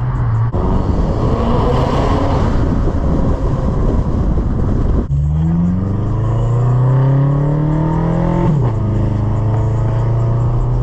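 Straight-piped BMW M5 F10 twin-turbo V8 exhaust under hard acceleration. A dense, rasping exhaust note gives way about halfway in to an engine note climbing steadily in pitch, which drops sharply at an upshift near the end and settles into a steady drone.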